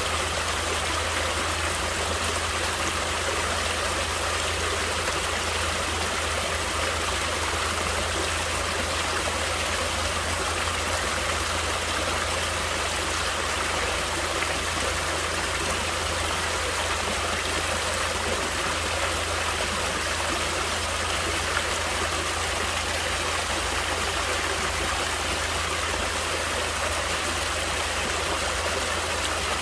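Natural running water flowing steadily: an even, unbroken rush with no pauses or changes.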